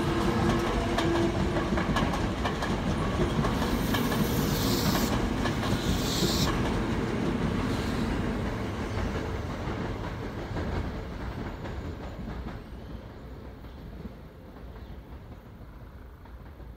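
Toei 5300-series eight-car electric train running past, its wheels clacking rhythmically over the rail joints, with a low whine in the first couple of seconds. After about eight seconds the sound fades steadily as the train pulls away.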